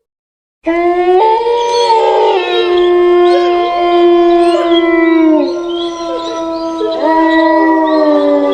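Wolves howling in chorus, starting abruptly about a second in. Several long, overlapping howls hold steady and then slide down in pitch at their ends, with new howls joining in partway through.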